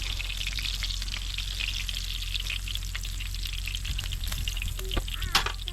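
Pork belly frying in a pan, sizzling and crackling steadily. A couple of sharp clicks sound about five seconds in.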